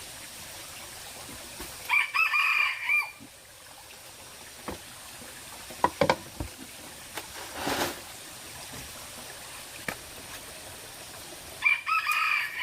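A rooster crowing twice, each crow lasting about a second, one a couple of seconds in and one near the end. A few sharp clicks and a brief rustle come between the two crows.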